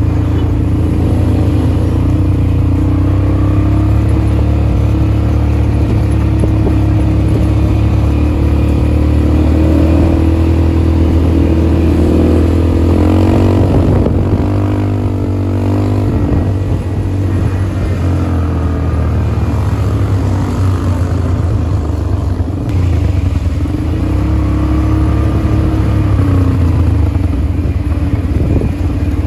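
ATV engine running steadily, its pitch wavering up and down about halfway through as the throttle changes.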